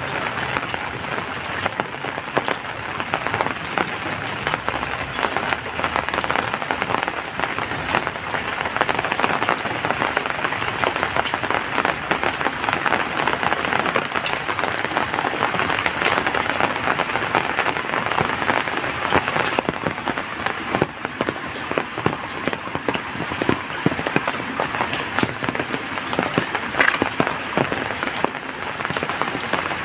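Steady heavy rain: a dense, even hiss packed with countless individual drop hits, with a steady high-pitched tone above it.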